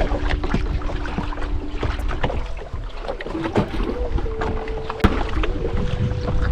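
Wind and water rumbling around a small open fishing boat, with frequent sharp knocks and clicks from gear being handled on board. Faint held tones shift in pitch behind it.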